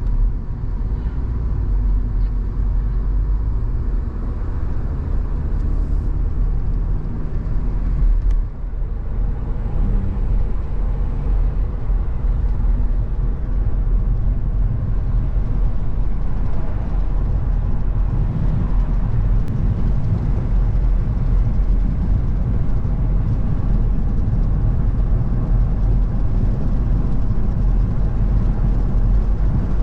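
A car driving along a road: a steady low rumble of engine and tyre noise, with a brief dip in loudness about eight seconds in.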